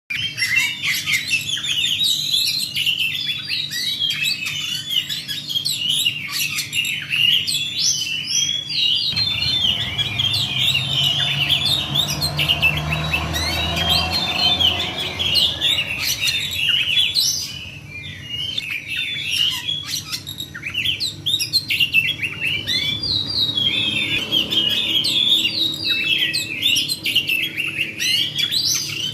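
Oriental magpie-robin (kacer) singing in fighting mode, a fast, unbroken roll of chirps and whistled notes with hardly a pause.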